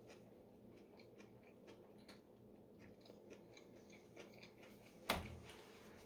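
Faint, close-up chewing of a mouthful of lettuce wrap with rice and shrimp: many small crisp mouth clicks. A single sharp knock about five seconds in.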